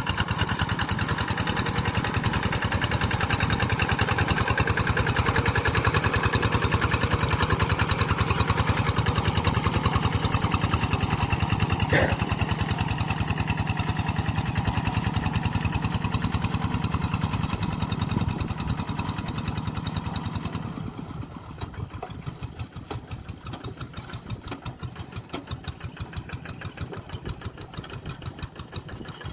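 Tractor engine running with an even, rapid pulsing beat, then becoming much quieter about two-thirds of the way through. A single short sharp sound is heard near the middle.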